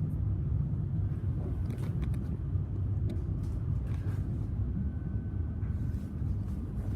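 Siemens electric suburban train running along the track, heard from inside the carriage as a steady low rumble with a few faint clicks.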